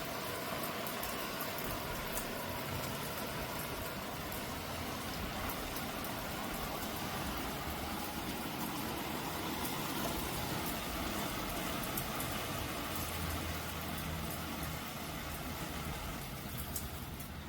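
Steady rain falling, an even hiss with small ticks of drops, over a low hum that swells about three-quarters of the way through.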